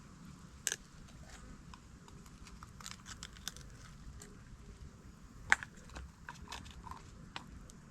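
Scattered light clicks and taps, with one sharper knock about five and a half seconds in.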